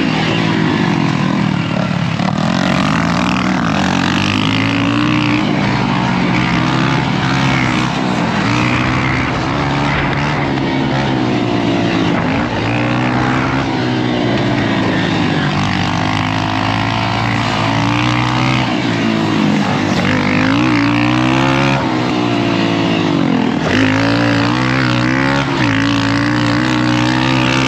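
Dirt bike engine revving up and falling off repeatedly as the rider accelerates, shifts and brakes around a motocross track.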